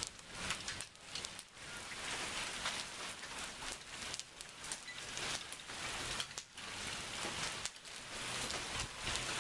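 Thunderstorm rain falling steadily, with many sharp ticks of drops striking close by and a level that swells and dips unevenly.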